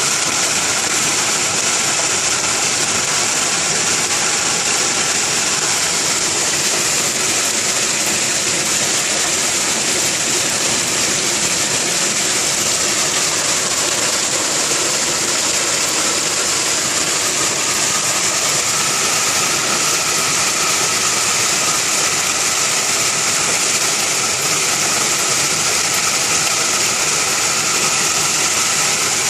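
Rain falling steadily, an even hiss that holds without let-up.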